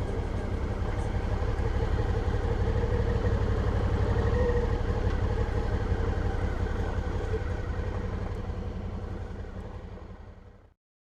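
Suzuki V-Strom 650 motorcycle on the move: a steady low engine and road rumble that fades out over the last few seconds and then drops to silence.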